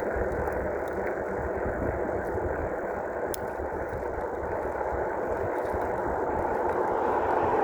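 Riding noise from a dual-motor electric bike under way: a steady rush of wind on the microphone and road noise that slowly grows louder.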